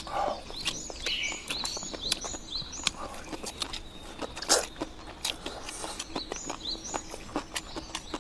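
Small birds chirping again and again, over frequent short clicks and knocks.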